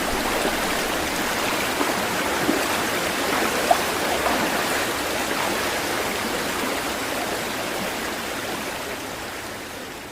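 Steady rush of running water with a few small gurgles and splashes, fading out near the end.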